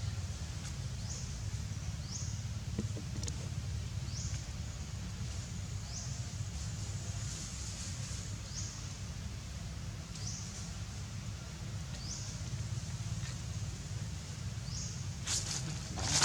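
Short, high, upward-sweeping chirps from a small animal, repeating every second or two over a steady low background rumble. A few sharp clicks come near the end.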